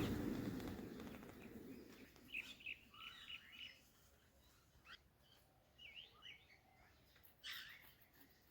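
Parrots giving faint, short chirps in scattered bunches, after a fading rustle in the first two seconds.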